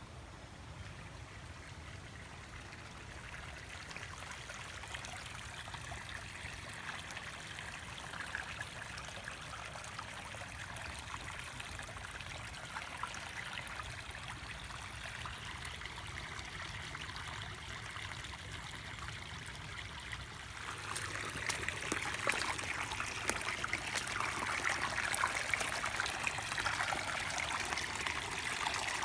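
Small seasonal stream trickling and babbling over its bed. It grows louder about twenty seconds in.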